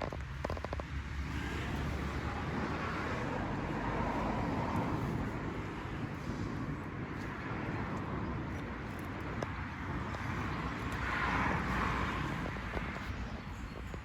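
Suzuki GSX-8S's 776 cc parallel-twin engine running from a cold start, steady, swelling in level twice.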